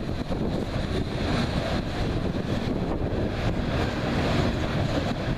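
Loaded coal hopper cars of a freight train rolling past: a steady rumble of steel wheels on rail, with wind buffeting the microphone.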